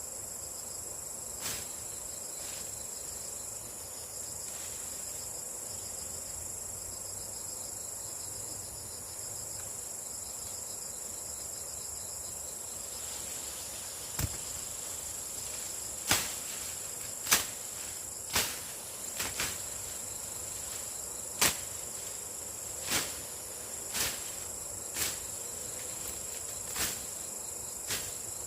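Steady high-pitched insect chorus, with a second, pulsing insect trill that stops about halfway. In the second half, a dozen sharp clicks or snaps come about a second apart.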